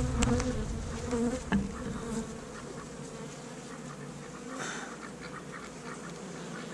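Honey bees buzzing steadily around an opened Langstroth hive, stirred up and agitated after a frame was pulled from the centre of the box. A few sharp knocks sound in the first couple of seconds.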